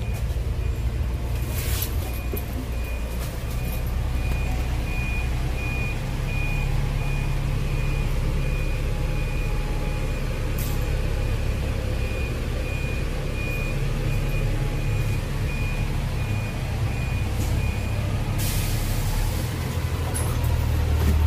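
Hong Kong city bus engine running with a low steady rumble, while a short high electronic beep repeats at an even pace until about three seconds before the end. Air hisses around two seconds in, midway, and as the beeping stops, typical of the bus's air brakes or air system venting.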